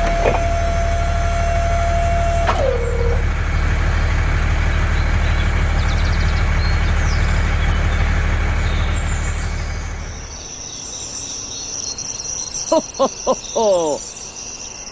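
An engine running with a steady low hum, which dies away about ten seconds in. Crickets keep chirping, and a few short high-pitched calls come near the end.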